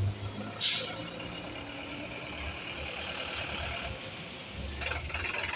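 Diesel city bus engine running low as the bus pulls in to the stop, with a short sharp air hiss about half a second in.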